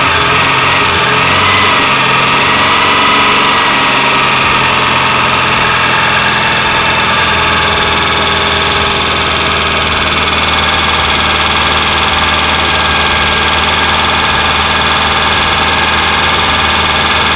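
ZAZ Slavuta car engine running at idle with a high-pitched whistle over the engine note; the pitch settles in the first few seconds, then holds steady.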